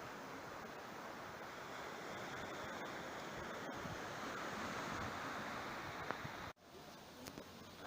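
Sea surf washing on a beach: a steady rushing that swells a little past the middle, then cuts off abruptly near the end, leaving a quieter hiss.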